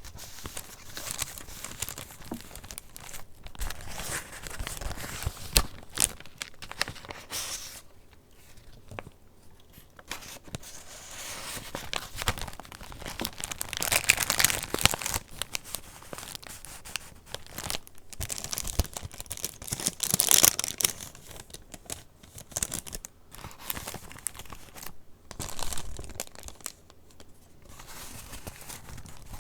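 Paper pages of a handmade junk journal being turned and handled, rustling and crinkling in irregular bursts with brief pauses. The loudest swells come about halfway through and again about two-thirds of the way in.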